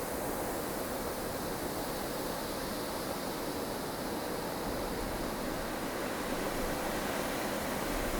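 Strong wind of a blustery snowstorm blowing in a steady, even rush with no gusts or breaks.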